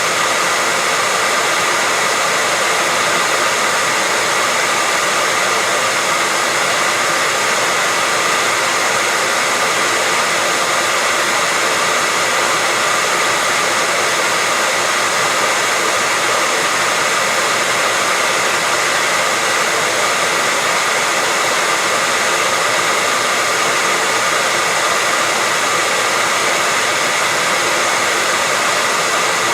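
Hair dryer blowing steadily, a constant rushing noise with a faint steady whine, played as white noise to lull a baby to sleep.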